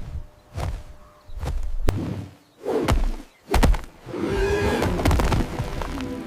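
A series of about five sudden booming hits with whooshes between them, separated by short quiet gaps, like cinematic impact sound effects; pitched music swells back in about four and a half seconds in.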